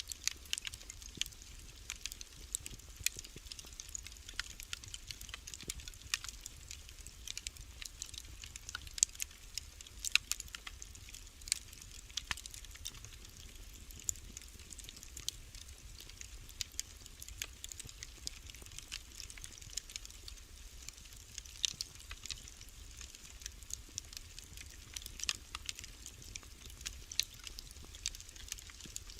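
Wood fire burning in a fireplace: a steady faint hiss with many irregular small crackles and sharp pops.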